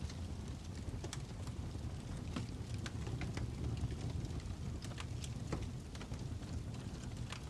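Fire crackling: a steady low rumble with irregular sharp pops and snaps.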